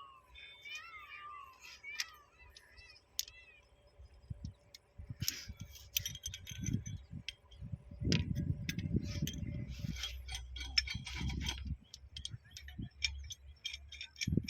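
A cat meowing a few times, then metal clinking and rattling with knocks and handling noise, as tools and fittings are worked with.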